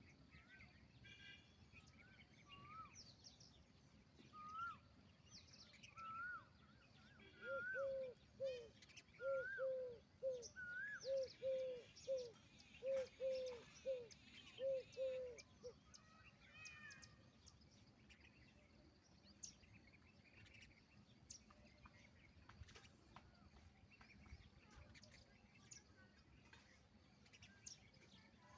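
Indian peahen (peafowl) calling a rapid series of short, repeated calls, about two a second, for some eight seconds starting about seven seconds in. Other small birds chirp and call around it throughout.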